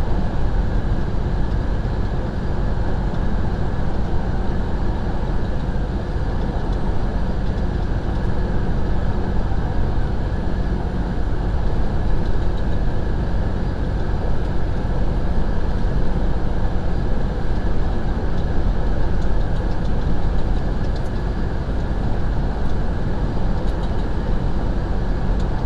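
Steady road and engine noise inside a semi truck's cab while it drives, a constant low rumble with no changes.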